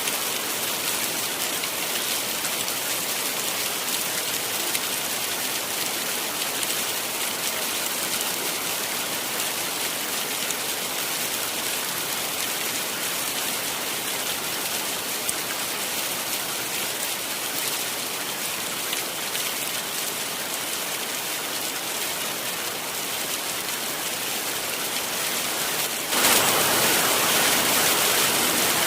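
Heavy rain falling steadily, a dense hiss of drops. A few seconds before the end it abruptly turns louder and fuller and stays that way.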